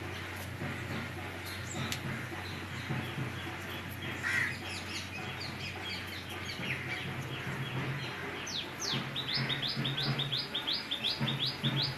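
Small birds chirping. Short, quick downward chirps turn into a fast, regular run of about three or four a second in the second half, over a low, steady hum.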